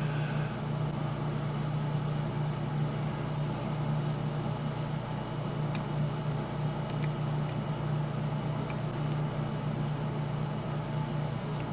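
Steady low mechanical hum, unchanging throughout, with a few faint light ticks.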